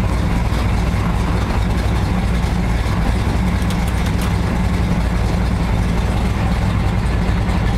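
An older car's engine running steadily under way, heard from inside the cabin, with a low, even drone and road and wind noise over it.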